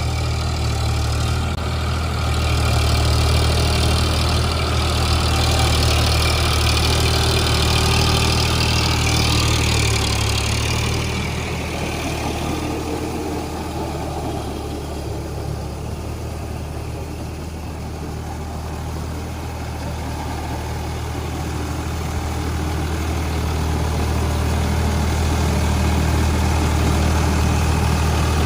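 Eicher 551 Prima G3 tractor's diesel engine running steadily. It is louder for the first ten seconds or so, drops back through the middle, then builds again near the end.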